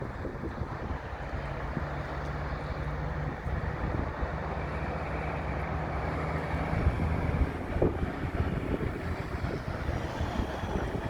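Truck engines running with a steady low drone over a continuous rushing noise; a low engine hum holds steady for several seconds in the middle.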